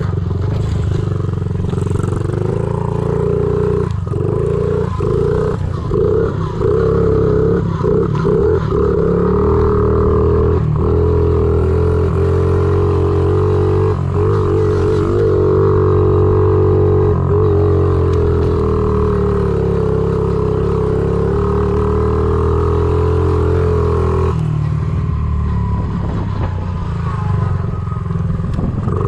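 Honda CRF50 pit bike's small single-cylinder four-stroke engine running under way. The throttle is chopped and reopened several times in quick succession in the first third. The engine then holds a steady pull and eases off for a few seconds near the end.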